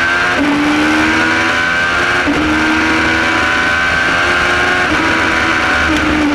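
Suzuki Hayabusa inline-four motorcycle engine pulling hard under acceleration, its pitch climbing slowly and dipping at several gear changes, over steady wind and road noise.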